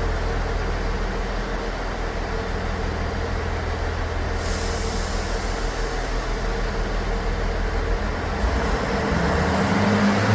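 Class 158 diesel multiple unit's underfloor diesel engines running steadily. A hiss of air starts about four seconds in and stops about four seconds later. Near the end the engine note rises as the train begins to pull away.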